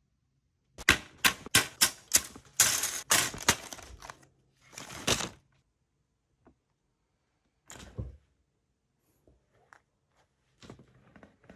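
A quick series of sharp plastic clicks and knocks, about eight in three seconds, then a short rustle and a few scattered taps: small parts of a plastic model kit being handled and worked on a bench.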